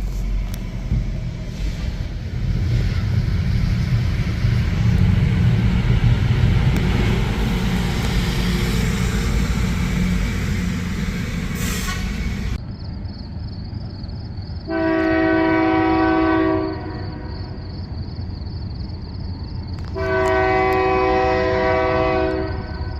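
Rail grinder working the rail: a loud, steady grinding noise over deep engine rumble, cut off abruptly after about 12 seconds. Then a locomotive's Nathan K3LA air horn on a GE C44-9W sounds two long blasts of about two seconds each, a few seconds apart, as a horn salute.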